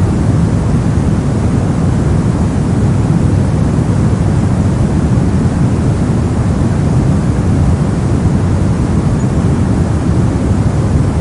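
Steady soft noise: an even, unchanging hush, deepest in the low range and thinning toward the top, with no breaks or events.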